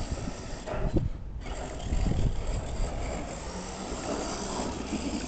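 Redcat Everest 10 RC monster truck running, its brushed electric motor and gear drivetrain whirring steadily as it is driven, with a short drop about a second in.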